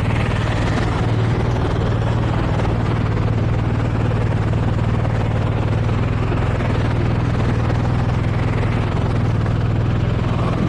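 Motorcycle engine running steadily at an even pitch, with a constant haze of road and traffic noise.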